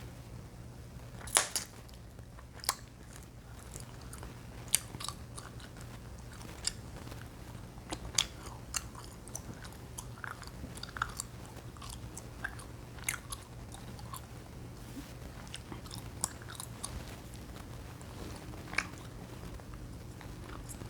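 Chewing gum being chewed and popped close to the microphone: irregular sharp pops and snaps among wet chewing, the loudest pop about a second and a half in. A steady low hum runs underneath.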